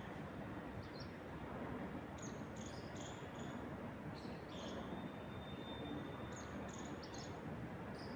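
Wind moving through trees, a steady rushing noise, with birds chirping in short high calls scattered throughout. A thin high note is held for about a second and a half near the middle.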